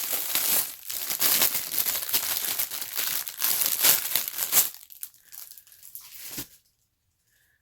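Packaging of a new Roomba replacement part being torn open and crinkled, with dense crackling for about four and a half seconds, then a few softer handling rustles before it goes quiet.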